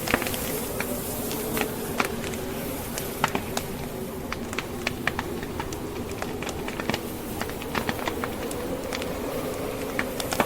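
Wood fire crackling in a fireplace, with frequent irregular sharp pops and snaps, over the steady, slightly wavering howl of snowstorm wind.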